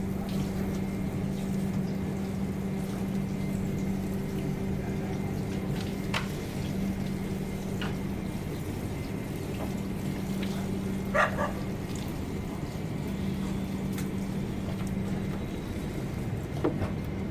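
Indian Railways train coach: a steady hum and rumble with a constant low tone. A few short, sharp sounds break in, the loudest about eleven seconds in.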